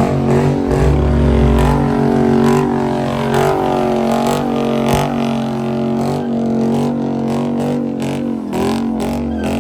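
Car engine held at high revs with a steady pitch, with a rapid run of sharp crackles and pops over it.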